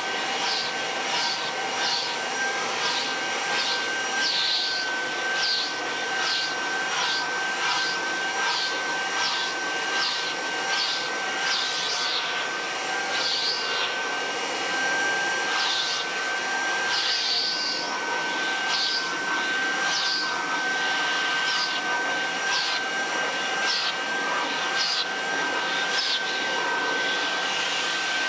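Kirby Heritage II upright vacuum cleaner running steadily with a high motor whine. Over it come repeated short swishes, about two a second at first and then further apart, as it is worked back and forth.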